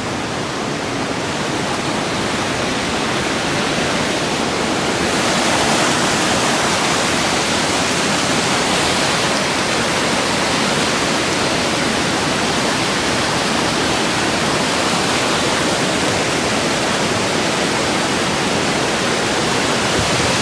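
Waterfall pouring over rocks: a steady rush of water that grows louder and brighter about five seconds in.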